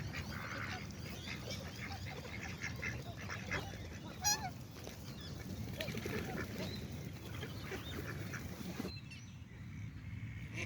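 A flock of waterfowl calling, many short overlapping calls, with one louder call about four seconds in. The background changes abruptly about nine seconds in.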